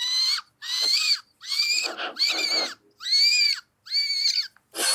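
A series of about eight short, high-pitched bird-like calls in quick succession, each with an arching pitch, roughly one every half second.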